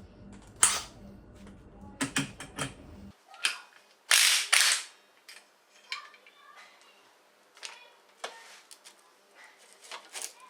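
Sharp metallic clicks and knocks of hand tools on a motorcycle engine's clutch hub, as the hub is held with a holding tool and its nut is undone. One louder, longer rattle comes about four seconds in.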